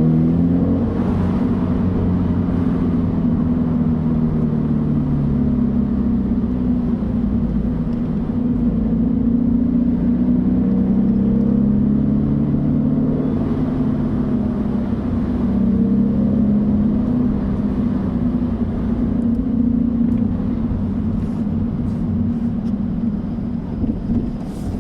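Subaru BRZ / Toyota 86 2.0-litre flat-four engine with a Borla axle-back exhaust, heard from inside the cabin while driving. The engine note rises and falls repeatedly as the car accelerates and eases off, over a steady low rumble.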